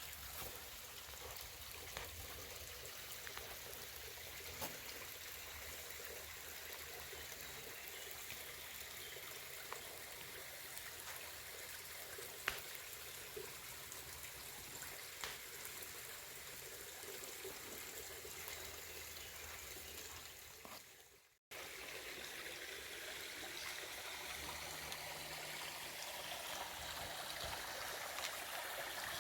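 Running water from a stream trickling steadily and faintly, with a few small ticks. It cuts out for a moment about two-thirds through and resumes slightly louder.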